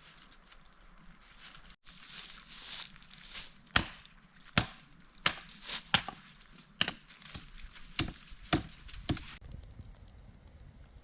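Wood being chopped with a blade, a run of about eight sharp strikes roughly two-thirds of a second apart.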